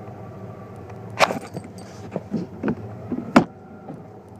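Chevy 350 small-block V8 with throttle body injection idling steadily, with a misfire. Several sharp, irregular clicks and knocks sound over it, the loudest about a second in and again near three and a half seconds.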